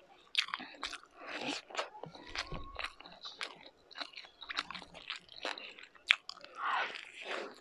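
Close-miked mouth sounds of a person eating rice and meat by hand: wet chewing with many quick lip smacks and clicks, and a longer breathy sound near the end.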